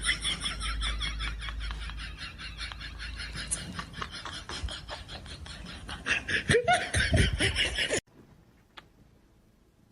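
Laughter in quick repeated bursts that stops abruptly about eight seconds in, followed by faint room noise and a single small click.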